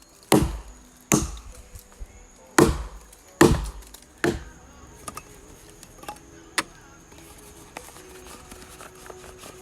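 Wood being chopped by hand: five heavy blows in the first four and a half seconds, then a single lighter knock a couple of seconds later.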